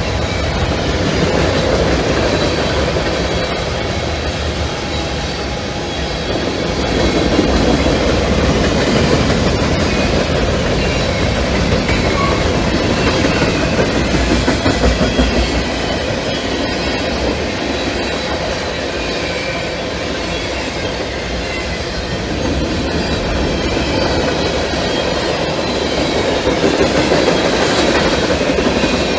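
Long CSX mixed freight train of hoppers, boxcars and tank cars rolling past at track speed on welded rail: a steady, loud rumble and rattle of wheels and car bodies, with faint high squealing tones from the wheels.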